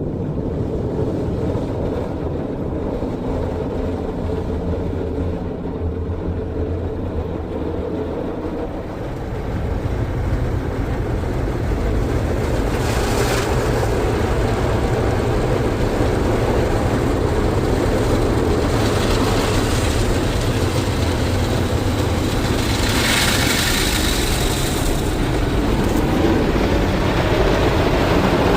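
Istobal M'Wash 3 rollover car wash in its brush-wash stage, heard from inside the car's cabin: a steady loud rumble and hum of the spinning brushes working over the body. It swells slightly about a third of the way through, with two brief hissing surges later on.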